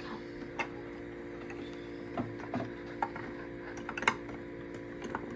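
Scattered light clicks and taps of kitchen utensils being handled, irregularly spaced, over a steady appliance hum.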